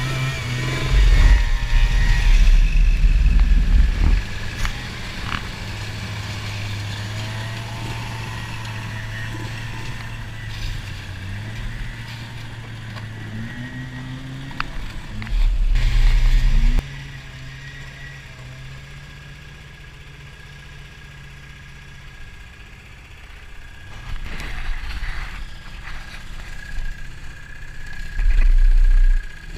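Snowmobile engine running while riding, its hum shifting in pitch and easing to a quieter run about halfway through. Three short, very loud low rumbles break in: near the start, around the middle and near the end.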